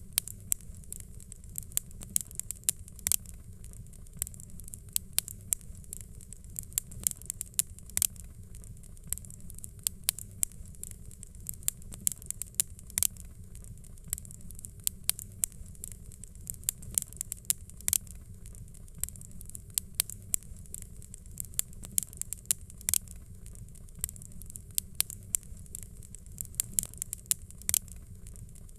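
Fireplace ambience of a wood fire crackling: irregular sharp pops and snaps over a steady low rumble.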